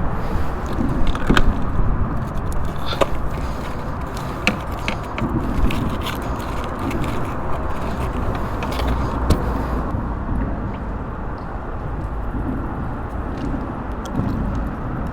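Wind on the microphone in a steady low rumble, with scattered sharp clicks and light taps of fishing tackle being handled during the first ten seconds.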